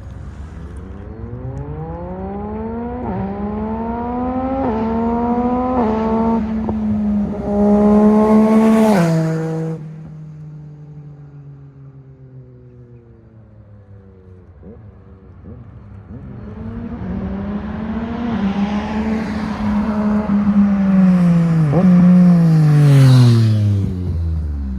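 Yamaha MT-09 inline-three with a full Arrow exhaust passing by twice under hard acceleration. Each time the engine note climbs through the revs and drops back at each upshift, grows loud and then falls in pitch as it goes past.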